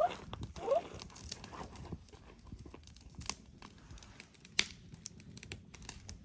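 Irregular crackling and rustling clicks, with a couple of short rising squeaks near the start and one sharper click about four and a half seconds in.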